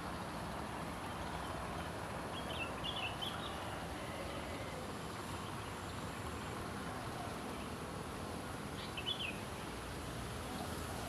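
A small songbird chirping in two short phrases, one a couple of seconds in and another about nine seconds in, over a steady background noise.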